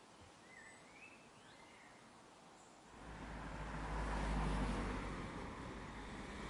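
A few faint bird chirps, then a road vehicle passing: its rumble swells in about halfway through, is loudest shortly after, and eases off a little near the end.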